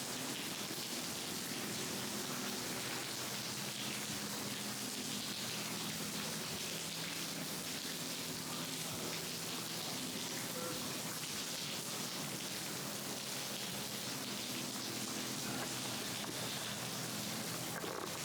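Falling water making a steady rain-like hiss, with faint steady low tones underneath.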